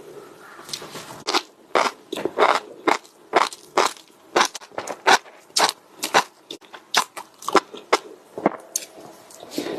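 Close-up chewing of crunchy food, with loud crisp crunches about twice a second.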